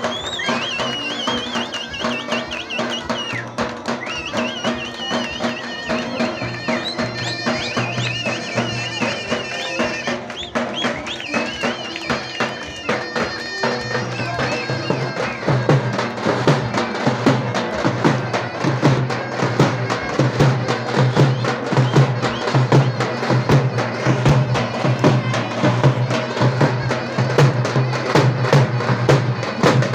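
Davul and zurna playing folk dance music. For about the first half the zurna's reedy, ornamented melody runs over a steady beat of the davul bass drum. Then the melody drops back and fast, louder davul strokes take over.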